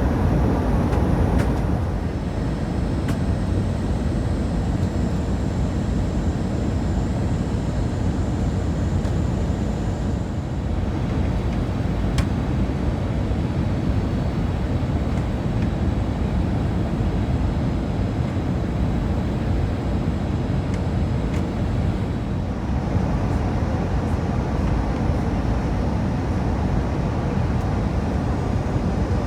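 Steady rumble of an Airbus A320's engines and rushing air heard inside the passenger cabin.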